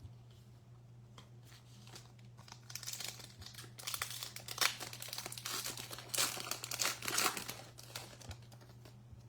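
A baseball card pack's wrapper being torn open and crinkled by hand: a run of crinkly rustling and tearing that starts about three seconds in and dies away after about seven seconds.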